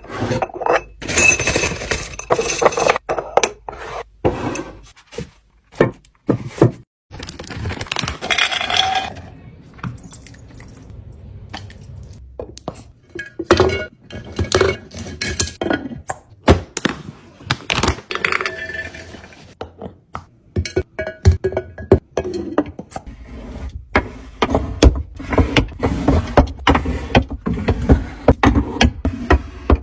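Food containers, jars and packets being handled and set down while a fridge is stocked: a busy run of knocks, clinks and scrapes, with brief ringing near the start.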